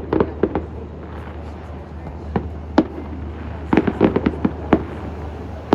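Fireworks going off: a run of sharp bangs and cracks at irregular intervals, bunched at the start and again in a quick burst about four seconds in, over a steady low hum.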